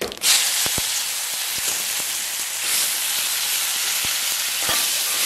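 Chopped tomatoes dropped into hot oil and tempering spices in a wok, setting off a loud, steady sizzle that starts suddenly about a quarter second in, with a few light clicks.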